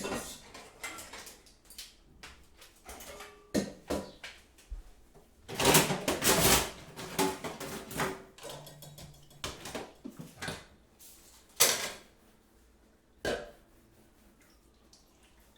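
Kitchen clatter of crockery and cutlery being handled: irregular clinks and knocks, busiest about six seconds in, with two last sharp knocks before it goes quiet near the end.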